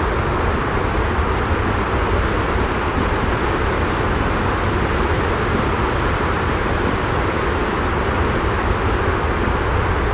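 Steady, unbroken noise with a heavy low rumble and no separate drops, knocks or changes: a continuous white-noise sleep track.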